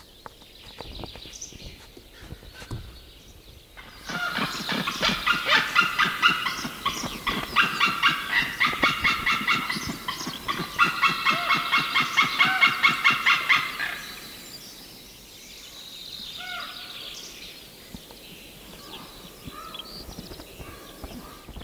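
Birds calling at a carcass: a few quieter calls, then about four seconds in a loud, dense chorus of fast repeated calls from several birds at once, lasting about ten seconds before it dies back to scattered calls.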